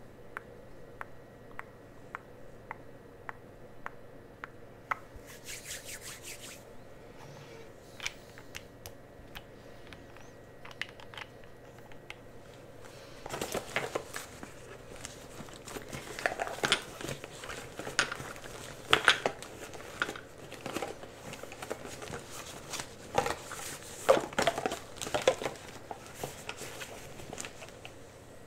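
Close-miked ASMR trigger sounds: scattered light clicks and taps, then, from about halfway, dense crinkling and rustling with sharp crackly peaks.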